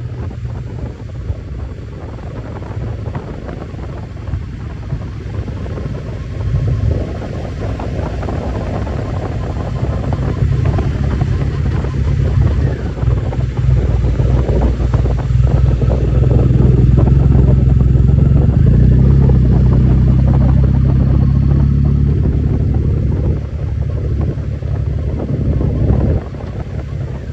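Motorcycle engine running under way, with wind rushing over the microphone. The engine grows louder from about halfway through and eases off near the end.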